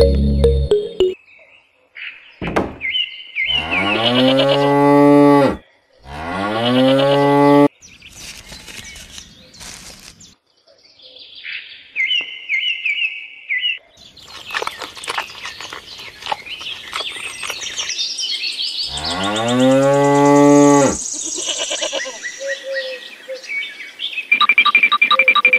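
Cow mooing three times in long, pitched calls, the first two close together a few seconds in and the third about two-thirds of the way through. Short high bird chirps come between the moos and again near the end.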